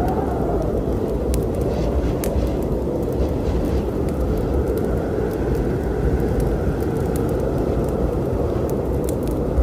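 Wood fire crackling, with scattered sharp pops, over a steady low storm rumble.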